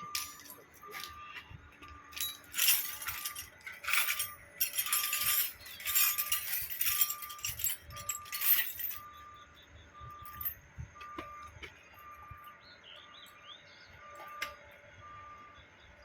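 Metal pump parts rattling, clinking and scraping as they are handled, loudest in a run of bursts in the first half, with a few single clicks later. A short electronic beep repeats about once a second in the background.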